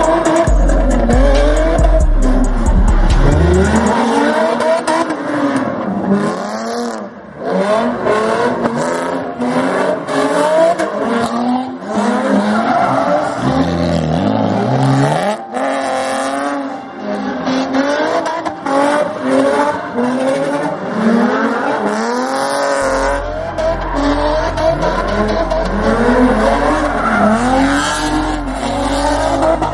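Car engine revving up and down over and over, with tire squeal, over music with a deep bass line.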